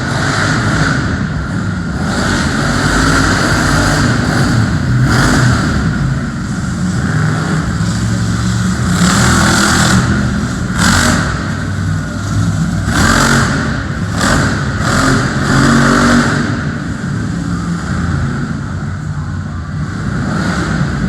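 Monster truck engine running loud and revving, the throttle rising and falling, with repeated brief rushes of hissing noise over it.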